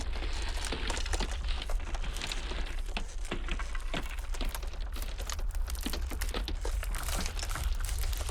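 Iceberg ice cracking: dense, irregular crackles and sharp snaps over a steady low rumble of blizzard wind.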